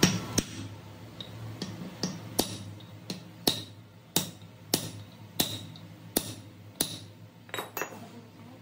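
Hammer tapping on metal pump parts: a steady series of sharp metallic taps, about one every two-thirds of a second, each with a short ring.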